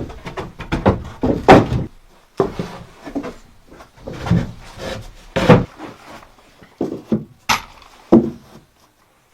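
Irregular wooden knocks and thuds, about ten of them at uneven intervals, some sharp and some heavier: pieces of timber being struck or set against each other.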